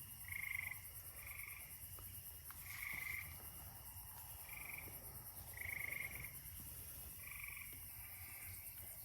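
Frogs calling: short trilled calls about one a second, some louder than others, over a steady high-pitched hum.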